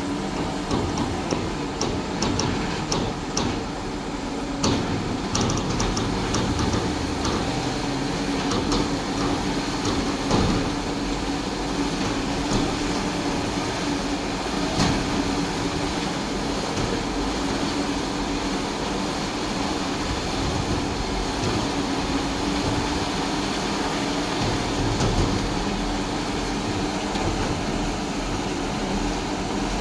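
Tow truck engines running steadily with a constant low hum, working to pull a truck out of a river. A run of sharp clicks in the first several seconds, and a few single knocks later.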